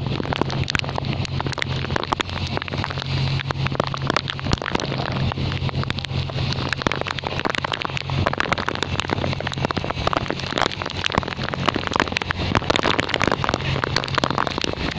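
Heavy typhoon rain pouring down and pattering on surfaces in a dense, continuous crackle of drops. A low rumble of wind on the microphone runs under it, dropping away about halfway through and returning near the end.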